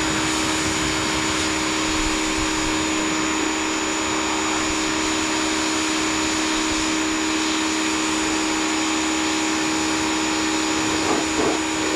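W6 2600 PSI electric pressure washer running steadily, its motor giving a constant hum and a thin high whine over the hiss of the water spray.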